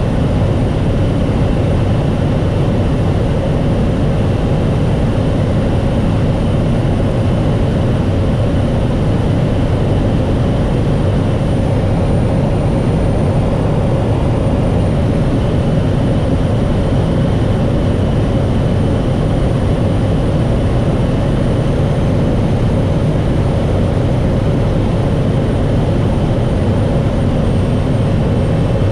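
Steady drone of a small propeller aircraft's engine, heard from on board, with a constant hum running through it and no change in power.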